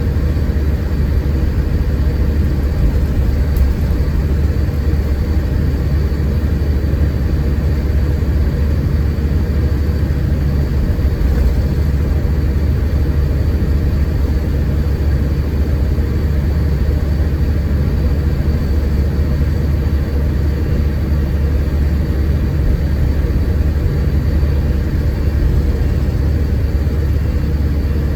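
Scania K410IB coach's 13-litre six-cylinder diesel running with a steady deep rumble, along with an even wash of road and tyre noise.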